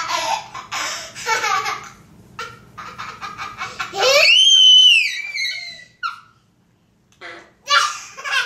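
Children laughing hard in bursts, with one long, very high-pitched squeal that rises and then falls about four seconds in, a brief pause, then more laughter.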